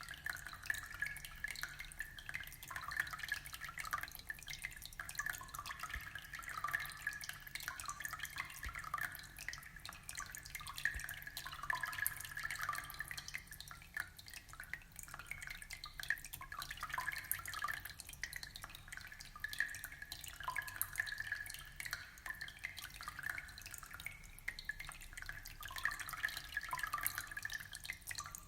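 Aquarium water trickling steadily, with a constant patter of small drips and splashes.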